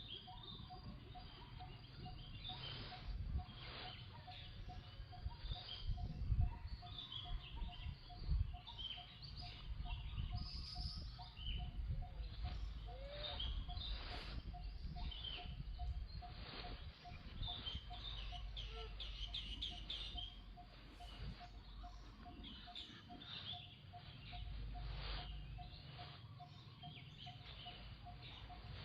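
Outdoor ambience: many short high chirps and squeaks scattered throughout, with a faint steady pulsing tone and low wind rumble that swells a few times.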